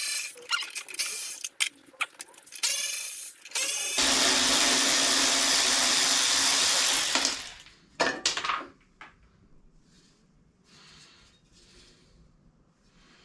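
Cordless power driver turning a 7 mm socket to spin out the exhaust bolts on a Briggs & Stratton lawn mower engine. It runs in several short bursts, then once steadily for about three seconds, followed by a few sharp clicks.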